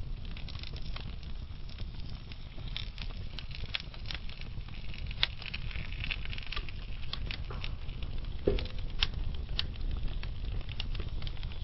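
Wood fire burning slowly in a fireplace: irregular sharp crackles and pops from the burning logs over a steady low rumble of the flames, with a louder pop about eight and a half seconds in.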